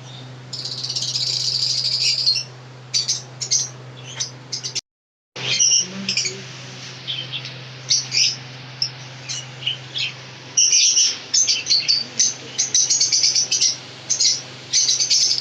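Pet birds chirping, with many short high calls, a dense run of chatter in the first couple of seconds and more scattered chirps later, over a steady low hum. The sound drops out completely for about half a second near the middle.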